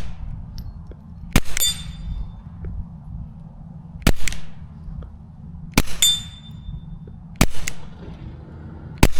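Suppressed Taurus TX22 .22 pistol firing CCI subsonic rounds: five sharp shots, one every 1.5 to 3 seconds. Twice a shot is followed a quarter second later by the ringing ping of a steel target plate being hit.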